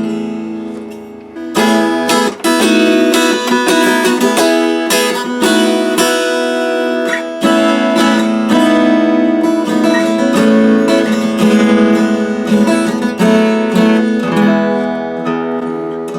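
Acoustic guitar played solo, with strummed chords and picked notes ringing out. The first strong chord comes about a second and a half in, and fresh attacks follow every second or so.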